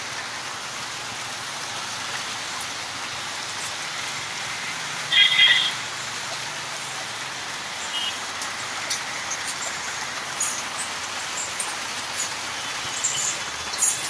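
Steady rain falling on a wet street, an even hiss. About five seconds in there is a brief high-pitched beep, and a few faint ticks come later.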